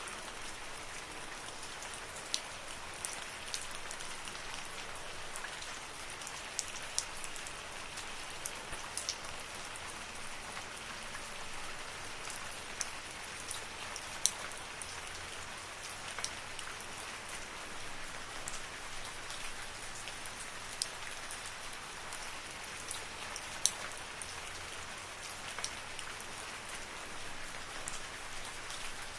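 Steady rain falling in a forest, an even hiss with scattered sharper drops landing close by, two of them standing out about halfway through and again near the end.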